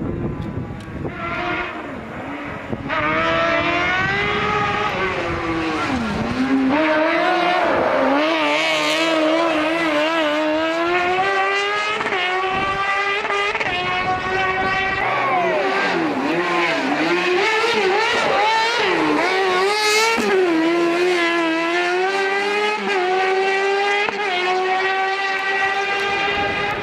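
Kart cross buggy engine at high revs, its pitch climbing and dropping repeatedly through gear changes and throttle lifts. It is quieter for the first few seconds, then runs hard and loud for the rest.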